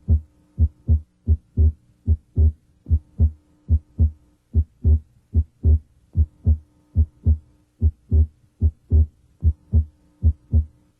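Heart sounds through a stethoscope's diaphragm at the left sternal border, third interspace: a regular lub-dub of the first and second heart sounds, about one and a half beats a second. This patient's second sound is abnormally widely split and varies with breathing.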